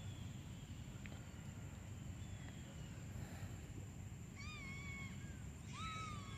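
Gull calling twice, two drawn-out mewing cries about a second apart, the second louder, over a steady low rumble.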